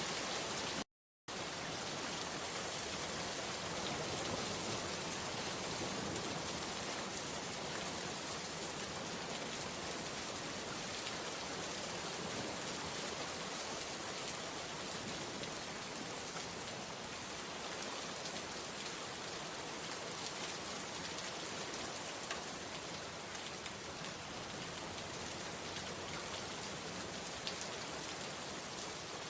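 Steady rain falling, an even hiss with faint scattered drop ticks. The sound cuts out completely for a split second about a second in, then resumes unchanged.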